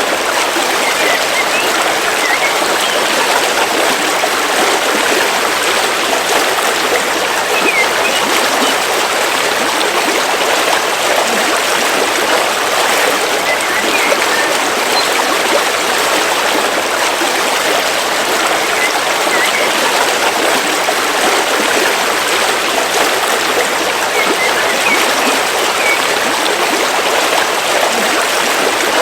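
A river stream flowing steadily over rocks, a continuous even rush of water.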